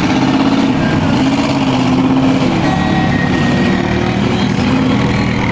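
Truck engine running steadily, its revs rising and falling a little.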